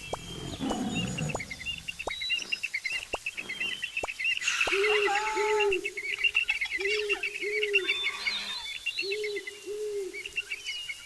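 Wild birds calling: a dense high twittering chorus, with a low two-note cooing call repeated in pairs several times.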